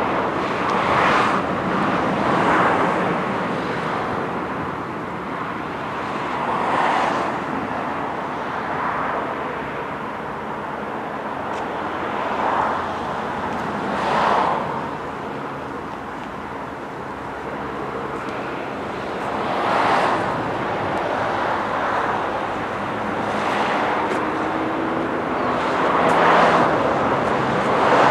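Road traffic: cars driving past one after another, each passing as a swell of tyre and engine noise over a steady background hum.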